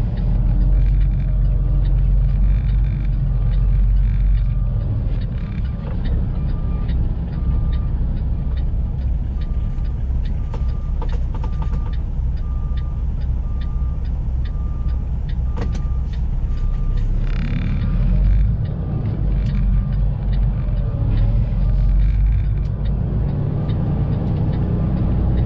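Semi truck's diesel engine running steadily, heard from inside the cab as a continuous low rumble. From about a quarter of the way in, a beep repeats a little faster than once a second. There are scattered light clicks and a short hiss about two-thirds of the way through.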